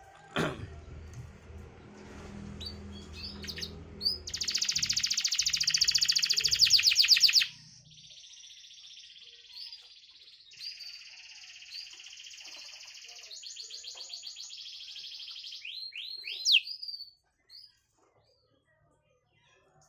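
Domestic canary singing a long song of fast trills and rolling phrases, loudest in a rapid trill from about four to seven seconds in, and closing with a few quick rising notes before it stops. A knock and some low rumble come right at the start.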